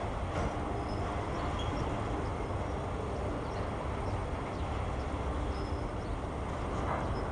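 CSX autorack freight cars rolling past, a steady rumble of steel wheels on the rails.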